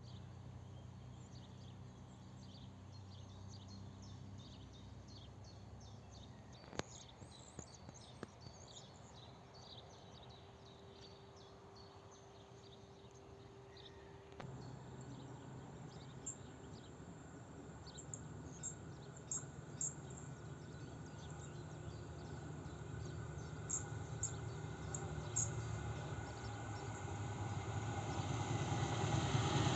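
Birds chirping over the low drone of an approaching SM42 diesel locomotive's engine. The drone steps up about halfway through and grows steadily louder near the end.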